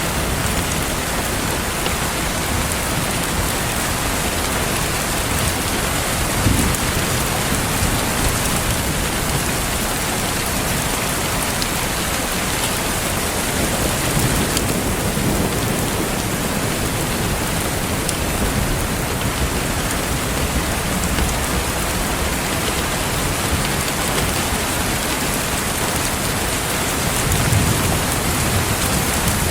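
Steady, dense rain falling, with a few soft low rumbles swelling up beneath it.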